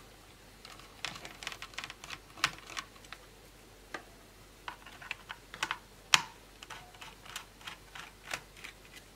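Irregular light clicks and taps from handling laptop parts during the drive swap, a couple of dozen over several seconds, the sharpest a little after six seconds in.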